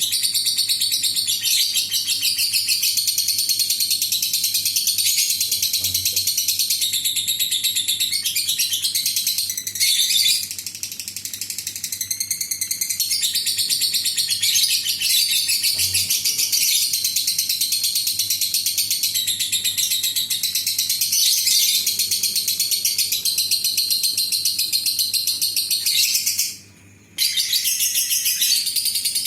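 Lovebird 'ngekek': a long, rapid, high-pitched chattering song that runs on almost without a break. It eases off for a moment midway and stops briefly about 26 seconds in.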